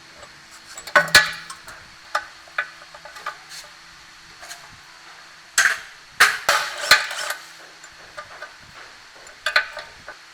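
Metal parts and hand tools clinking and knocking as they are handled: a few sharp knocks about a second in, a burst of clattering in the middle, and a couple more knocks near the end.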